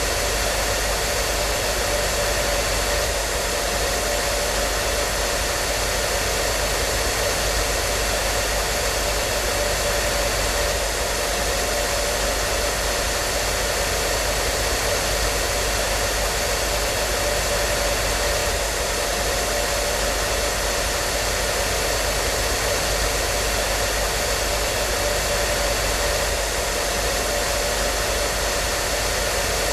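Hair dryer running continuously at a steady speed: an even rush of air with a constant motor hum and whine and no change in pitch or level.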